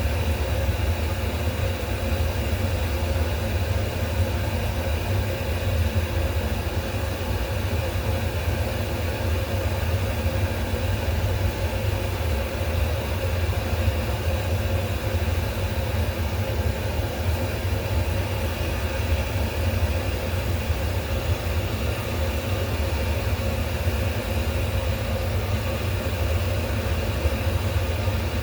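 Steady low hum with a faint steady tone above it, unchanging throughout.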